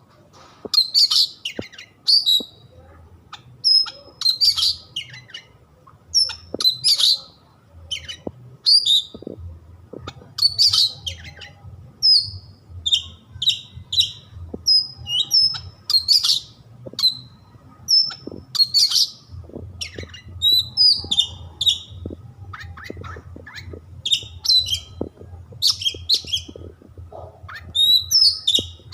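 Oriental magpie-robin (kacer) singing: short, high phrases repeated every second or so, with brief gaps between them.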